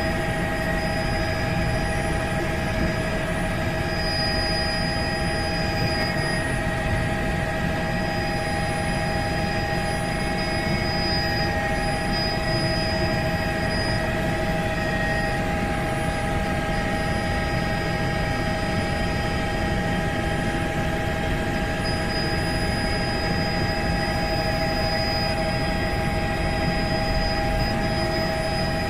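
Helicopter in steady flight: a constant rumble of rotor and engine noise with several steady high whining tones of the turbine and gearbox on top.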